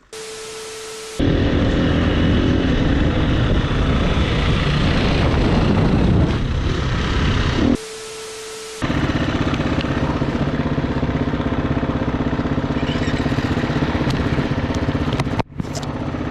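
Dirt bike engine running hard while riding, with wind noise on the camera, in two long stretches. These are separated by abrupt cuts to short quieter stretches that carry a steady hum.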